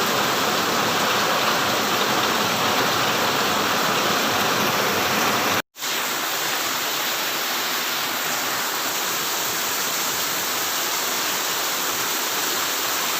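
Heavy rain pouring down, a dense steady hiss of rainfall. It cuts out for an instant about five and a half seconds in and comes back slightly quieter.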